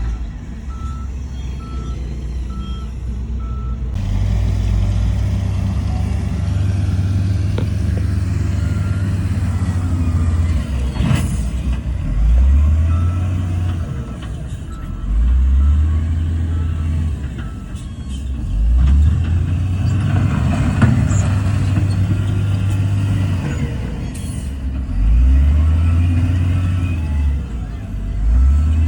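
Heavy diesel earthmoving machine engine working under load, its revs surging up and falling back every few seconds. A reversing alarm beeps steadily for the first three seconds.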